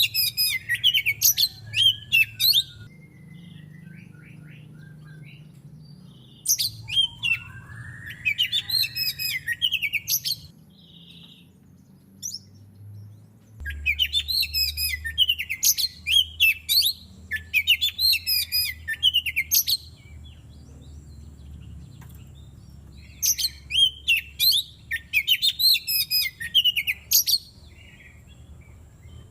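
Oriental magpie-robin singing: four bursts of rapid, varied high-pitched song phrases, each a few seconds long, with pauses of a few seconds between them.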